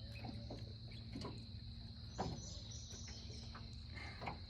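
Insects droning: a steady, high-pitched continuous tone in the background, with a few faint clicks and soft knocks from close handling.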